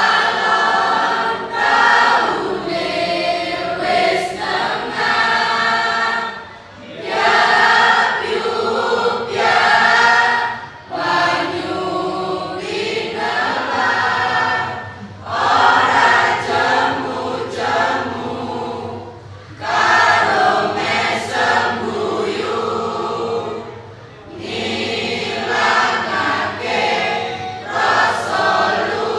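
Mixed school choir singing a cappella in phrases of a few seconds each, with brief breaths between them.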